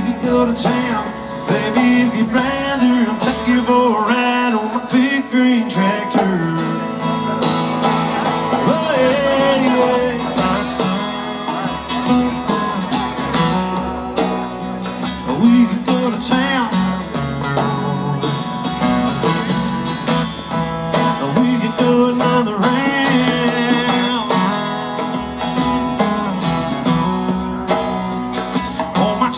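Live country band playing an instrumental passage led by electric guitar, with bending, sliding lead lines over a steady backing.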